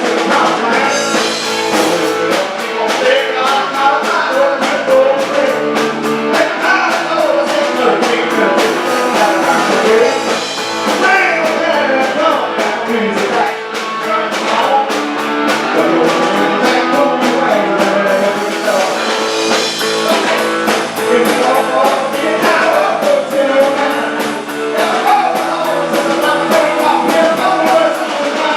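Live rock and roll band playing, with guitar and drums keeping a steady beat and a melody line wavering over the top.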